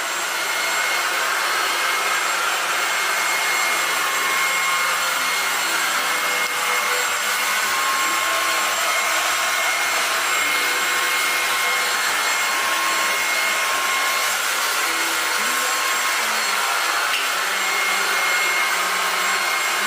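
LEVOIT VortexIQ 40 cordless stick vacuum running steadily: an even whooshing motor and airflow noise with a thin high whine on top.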